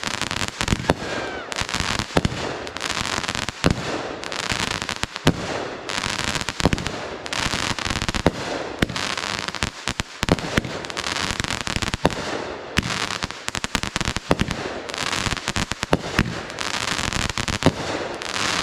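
A fireworks barrage: a rapid run of sharp bangs and crackling, hissing bursts, with a fresh surge every second or two and no break.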